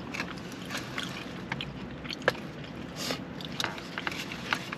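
Close-up eating sounds: chewing with scattered short clicks and smacks, and a brief rustle about three seconds in, over a low steady hum.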